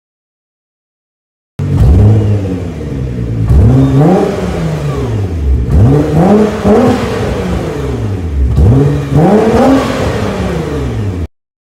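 Sports car engine revved while stationary: about five sharp throttle blips, each time the pitch jumping up and falling back. The sound starts suddenly about a second and a half in and cuts off abruptly near the end.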